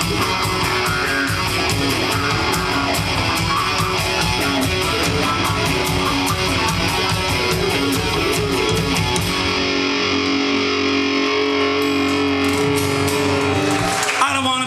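Live rock band playing an instrumental passage on electric guitar with drums. About two-thirds of the way through, the drums stop and the guitar chords ring on.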